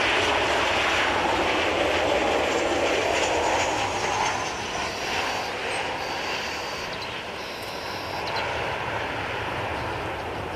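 Aircraft engine noise: a steady rush that drops off about four seconds in, with a faint high whine sliding down in pitch.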